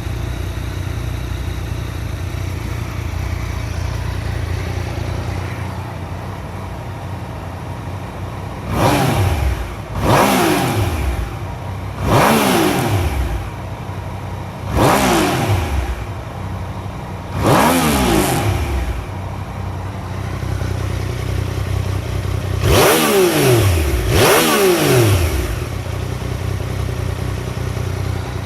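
Yamaha MT-09's 847 cc inline three-cylinder engine idling steadily, then blipped seven times, each rev climbing quickly and dropping straight back to idle; the last two come close together near the end. The seller describes the idle as stable and the revving and throttle response as very good, with no abnormal mechanical noise or smoke.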